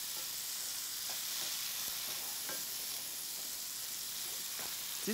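Sliced leeks and tomatoes sizzling steadily in a hot frying pan while a wooden spoon stirs them, with a few faint scrapes and taps of the spoon.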